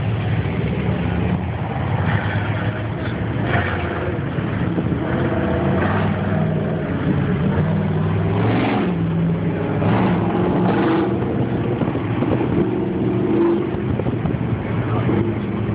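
Several car engines running together, mostly idling, with the pitch rising and falling now and then as engines are revved.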